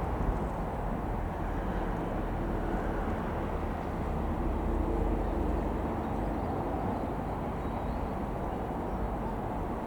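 Piston engine of a Comco Ikarus C-42 microlight running steadily, with a heavy low rumble and a slight swell about halfway through.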